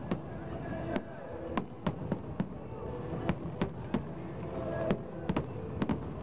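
Aerial fireworks shells bursting in an irregular series of sharp bangs, more than a dozen in six seconds and several in quick pairs, over a steady background din.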